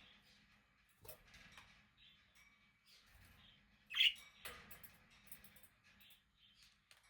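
Budgerigars chirping and warbling softly, with one louder sharp chirp about four seconds in.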